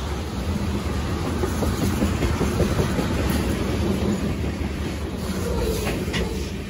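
Freight train's tank cars and covered hopper rolling past close by: a steady rumble of steel wheels on rail, with a few sharp clicks near the end as the last car goes by, and the sound begins to ease off.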